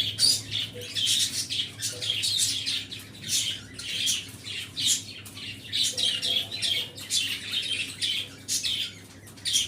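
A flock of small caged pet birds (budgerigars, lovebirds and finches) chattering, with many short shrill chirps and squawks overlapping without a break. A faint low steady hum lies beneath for the first few seconds.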